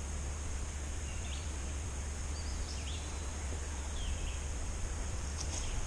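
Quiet woodland ambience: a few faint, short songbird chirps over a steady low rumble and a thin, steady high insect hum.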